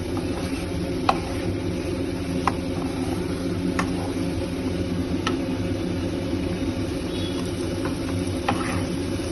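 Onion, tomato and capsicum frying in a kadai while a spatula stirs them, with a light click against the pan every second or so, over a steady low hum.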